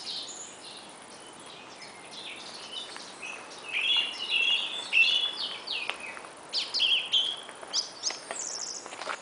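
Several wild songbirds singing and calling, a mix of short chirps and trills that grows busier about halfway through, over a faint steady hiss.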